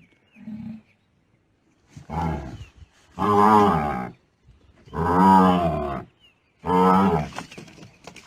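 A large trapped animal bellowing: four long, loud, drawn-out calls that rise and fall in pitch, a second or so apart.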